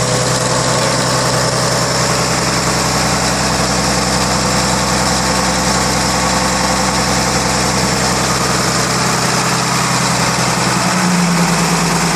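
Freshly rebuilt inline six-cylinder engine of a 1933 Chevrolet running at a steady fast idle. About eleven seconds in, it speeds up slightly and gets a little louder.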